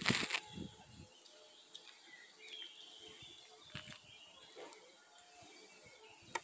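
Faint scattered bird chirps over quiet outdoor background, with a brief burst of noise at the very start.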